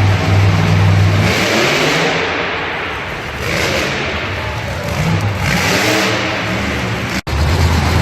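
Monster truck engine revving loudly: a steady low rumble broken by repeated surges of throttle, with a momentary cut-out just past seven seconds.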